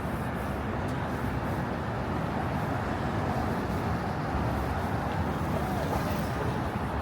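Steady city street traffic noise: the low, even rumble of passing cars and buses, with a faint brief high squeal about five seconds in.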